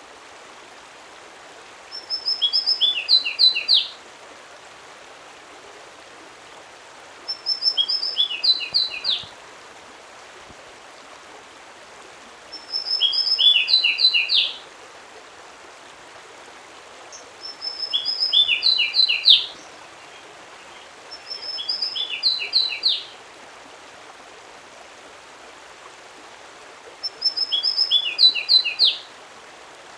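A songbird singing the same short phrase of quick, high notes six times, about every five seconds, over a steady background hiss.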